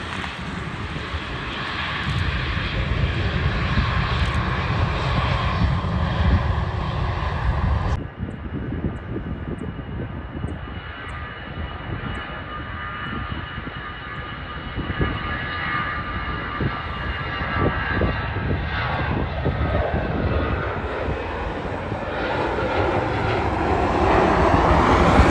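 Jet airliner engines running loud and steady, changing abruptly about eight seconds in, after which a thinner engine noise with a faint high whine carries on and swells again near the end.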